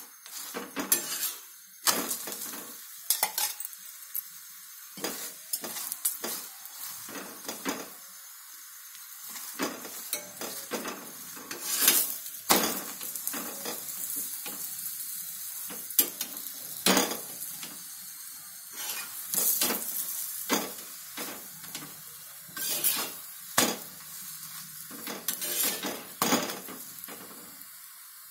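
Paratha frying in oil on a hot tawa: a steady sizzle, with a metal spatula pressing and scraping on the pan in irregular knocks and scrapes.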